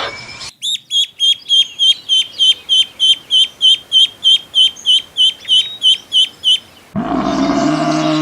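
A bird calling a long, even series of short, identical high chirps, about three a second. Near the end a loud, deep animal call begins.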